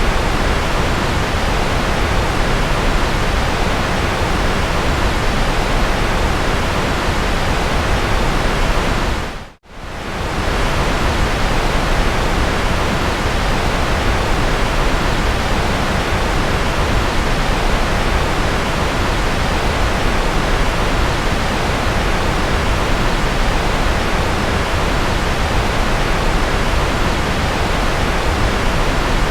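Steady white noise of the rocket-or-jet sleep-track kind, an even hiss and rumble across the whole range. About nine and a half seconds in it briefly fades out almost to silence and then comes straight back.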